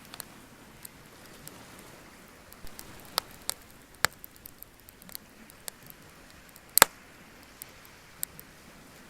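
Wood bonfire crackling: irregular sharp pops and snaps, the loudest about two-thirds of the way in, over a faint steady hiss.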